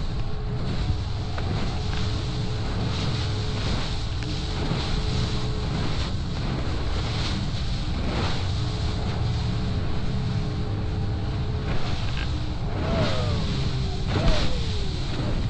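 A boat's engine running steadily under wind and water noise. Near the end come two short falling cries.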